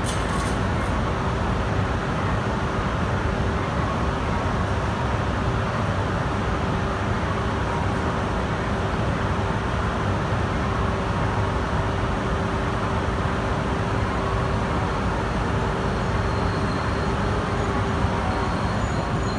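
Steady rumble and hum of Shinkansen trains at a station platform, with a constant low tone. A faint high whine joins near the end as an E5-series Shinkansen rolls slowly in alongside.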